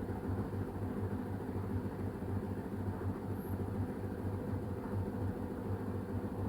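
LG washing machine running with a steady low hum that pulses slightly.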